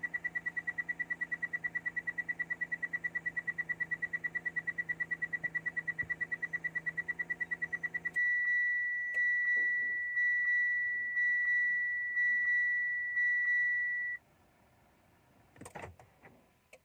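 Mitsubishi Montero's dashboard warning buzzer sounding while the engine fails to start, a fault later traced to a weak battery. It gives rapid, chattering beeps over a low hum. About eight seconds in, these change to slower beeps, under two a second, which stop about six seconds later, followed by a few faint clicks.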